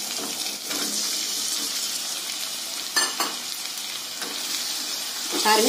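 Onions, whole green chillies and spices sizzling steadily in hot oil and ghee in a stainless steel pressure pan, stirred with a wooden spatula as chopped tomatoes go in. A single sharp knock comes about three seconds in.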